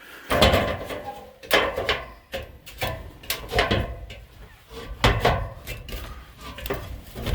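Irregular wooden knocks and clatter of footsteps climbing wooden stairs, with a few rattles in between.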